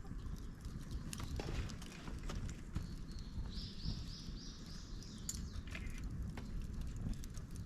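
Dry bamboo and twigs burning in a fire pit, crackling with irregular sharp pops. Partway through, a bird calls a quick run of about six high notes.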